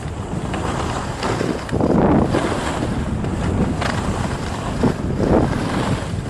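Wind buffeting the microphone as a loud, low rushing that swells in gusts.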